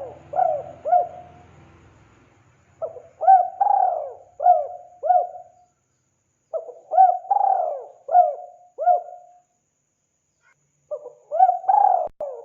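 Spotted dove (tekukur) cooing: phrases of about five rising-and-falling coo notes, a new phrase every three to four seconds with short silent gaps between.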